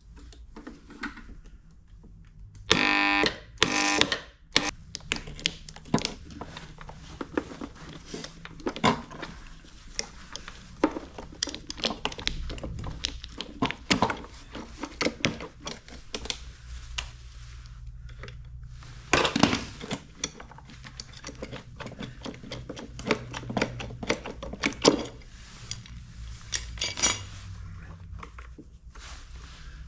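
Clicks, knocks and clatter of hands and tools working on an electric lawn mower, with a loud shrill pitched squeal lasting about a second, about three seconds in, and another loud burst of noise near the twenty-second mark.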